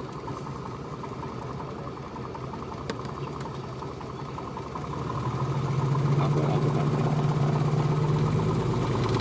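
Piper Comanche's single piston engine running at low taxi power, growing louder about five seconds in as power is added.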